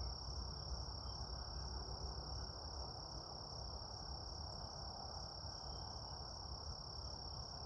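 Steady, unbroken high-pitched trill of a dusk insect chorus, crickets or similar, over a faint low rumble.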